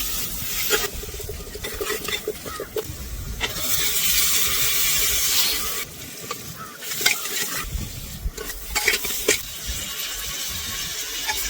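Vegetables sizzling in a cooking pot while being stirred, with a spoon scraping and knocking against the pot. The hiss is stronger for a couple of seconds before the middle, and the sound drops suddenly about six seconds in.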